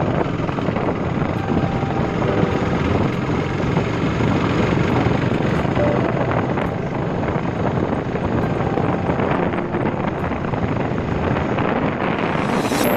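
Motorcycle engine running while being ridden, mixed with wind noise on the microphone.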